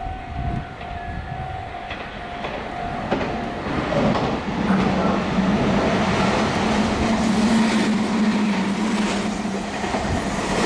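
A Meitetsu electric train passing through the station at speed. From about four seconds in there is a loud rumble of wheels on rail with clickety-clack over the joints and a steady motor hum. Before it, a steady two-pitch tone sounds for the first few seconds.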